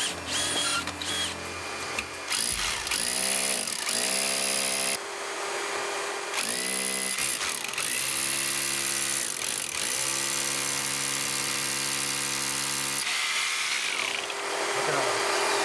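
Electric drill boring a flue-pipe hole through an interior wall, its motor pitch sagging and recovering several times as the bit loads up in the wall.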